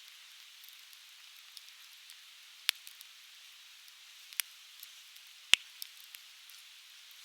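Conifer firewood crackling in an open fire: scattered small ticks and snaps over a steady soft hiss, with three sharp pops, the loudest about five and a half seconds in.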